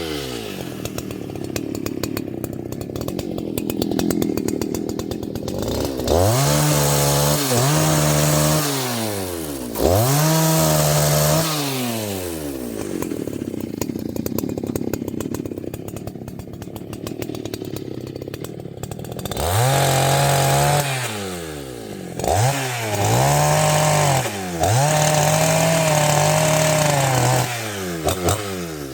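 Two-stroke chainsaw engine idling and being revved repeatedly. Six times the pitch climbs quickly to full throttle, holds for a second or two, then drops back to idle; the revving bursts are loud.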